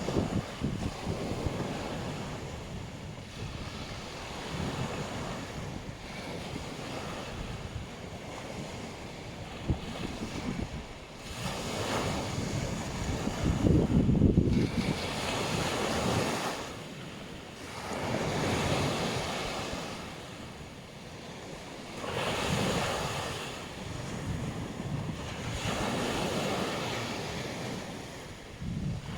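Black Sea waves breaking and washing up a beach, the surf swelling and ebbing every few seconds. Wind buffets the microphone, loudest in a low rumbling surge around the middle.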